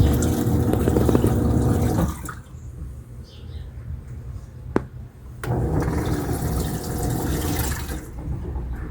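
Washing machine running, water rushing and sloshing over a steady motor or pump hum. It stops abruptly about two seconds in, a single sharp click comes in the pause, and the water and motor start again a few seconds later.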